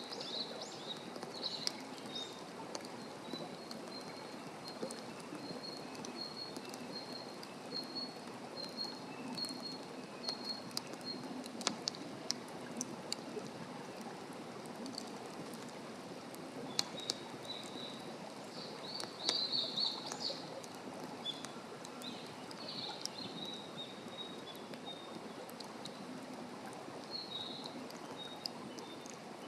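Wood campfire crackling, with sharp pops scattered throughout over a steady low hiss. Small birds chirp alongside in quick runs of high notes, most busily in the first third and again in clusters later.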